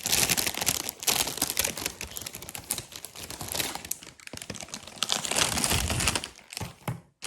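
Plastic packaging crinkling and rustling as binders are unwrapped and handled, with many small crackles and clicks; it stops abruptly near the end.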